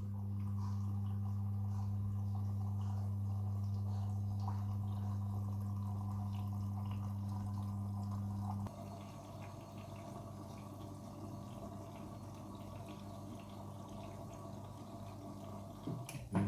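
Front-loading washing machine filling with water: a steady mains-frequency hum with water running and dripping into the drum. About nine seconds in, the hum cuts off and quieter trickling continues.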